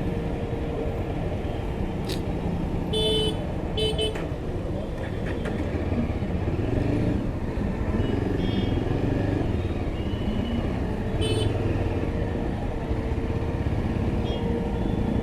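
Yezdi Adventure single-cylinder motorcycle riding through city traffic: steady engine and road rumble, with short vehicle horn toots about three to four seconds in and again about eleven seconds in.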